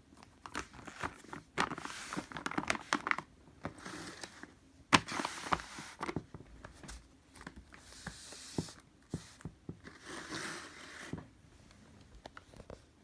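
Plastic packaging crinkling and rustling in irregular bursts as it is handled, with scattered sharp clicks and knocks.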